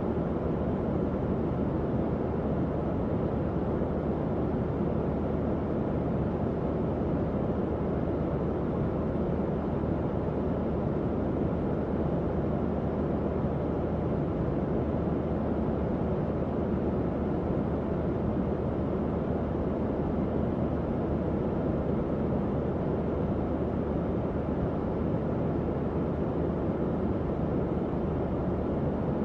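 Tower fan running steadily: an even, unchanging whoosh of moving air, deep rather than hissy, with a low hum from the motor underneath.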